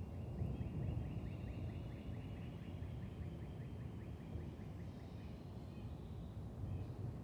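A bird trilling: a fast, even run of short high chirps, about five a second, that fades out about five seconds in. Under it a steady low rumble.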